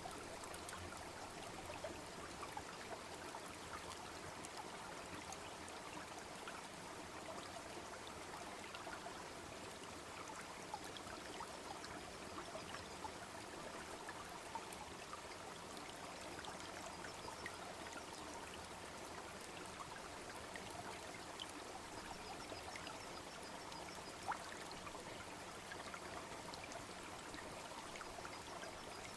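Steady rush of a small babbling brook with a wood fire crackling over it: scattered small clicks and a few sharper pops.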